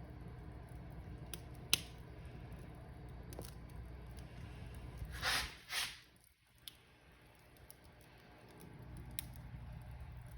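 Wood fire crackling, with scattered sharp pops over a steady low rumble. Two louder crackling bursts come about five seconds in, and the rumble briefly drops away just after them.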